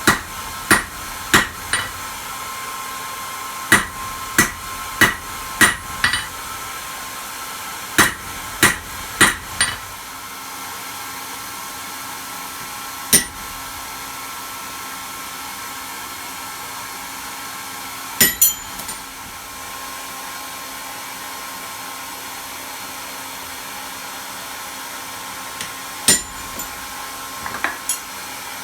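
Hand hammer striking metal on an anvil in short runs of two to five blows with pauses between, the anvil ringing briefly after some blows. A steady hiss runs underneath.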